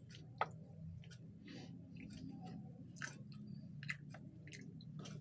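Close-up eating sounds: a person chewing food with scattered soft clicks and smacks, one sharper click about half a second in, over a faint low hum.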